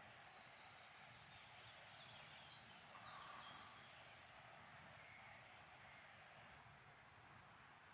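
Faint woodland ambience: birds singing, with short high chirps repeated every half second or so, over a soft steady hiss.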